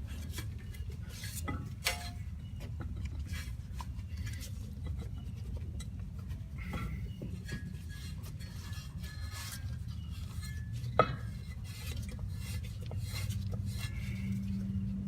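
Metal clinks, taps and scrapes of a CVT clutch being worked onto a splined shaft, with one sharp metallic knock about eleven seconds in, over a steady low hum.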